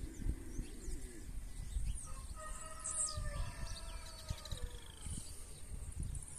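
Birds calling: short, high chirps of a blue-black grassquit (tiziu), and in the middle a longer, lower, slightly falling call from another bird. A low rumble of wind on the microphone runs under it.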